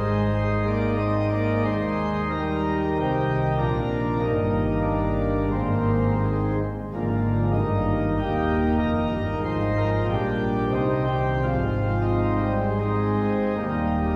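Organ music: held chords that change every second or two, with a brief drop in level about seven seconds in.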